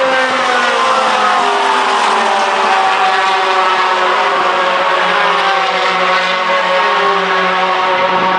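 Racing pickup trucks' engines running at speed on track, several engine notes overlapping and falling slowly in pitch.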